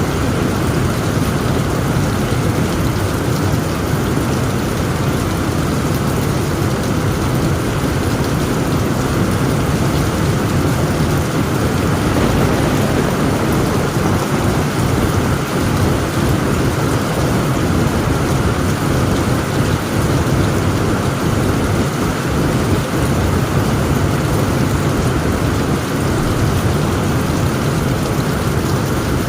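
Heavy rain pouring on a tent roof, a steady dense hiss over a continuous low rumble of thunder, with no single loud crack.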